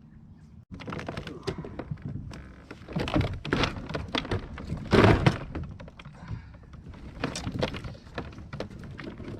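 Hollow knocks and clattering from a kayak being landed: paddle and gear bumping against the plastic hull, with one heavy thunk about five seconds in.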